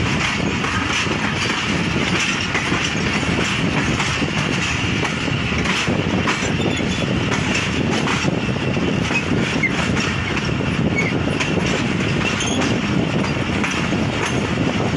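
Passenger train's wheels running on the rails through junction pointwork, a steady rolling rumble with faint clicks, heard from the coach's open doorway.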